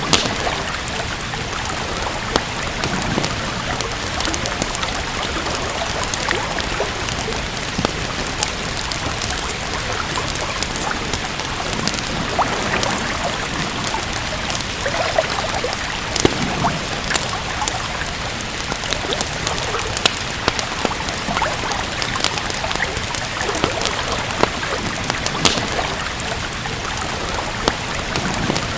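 Steady rain with the frequent sharp crackles and pops of a wood fire burning in a fireplace.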